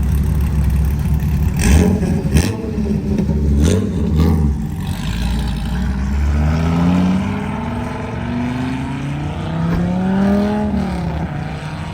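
Car engines running: a low steady drone with a couple of sharp knocks, then an engine revving, its pitch climbing and falling back from about six seconds in.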